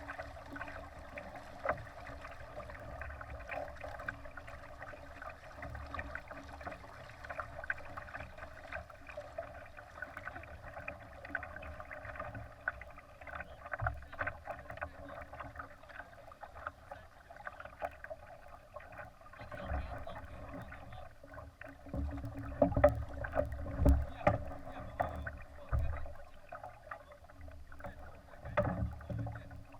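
Water rushing and splashing along the hull of a Laser sailing dinghy under way, with many small crackles. Heavy low wind buffeting on the microphone comes in gusts in the second half.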